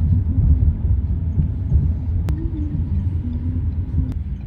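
A steady, loud low rumble, like traffic or a vehicle in motion, with two sharp clicks, one about halfway through and one near the end.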